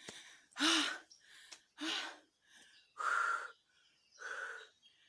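A person breathing hard after a steep uphill climb: four heavy breaths about a second apart, the first two with a little voice in them.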